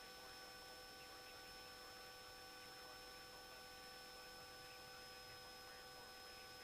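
Near silence: a faint steady hiss with a few thin, unchanging electrical tones in the audio feed.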